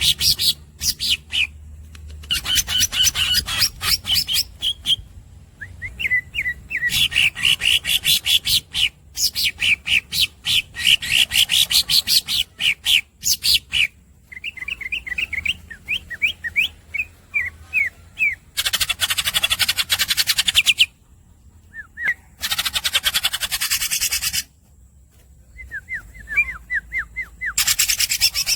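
Green leafbird (cucak ijo) singing: long rolling trills of rapidly repeated squeaky notes, with short pauses between phrases. In the second half, three harsh buzzing rattles of about two seconds each break in among the trills.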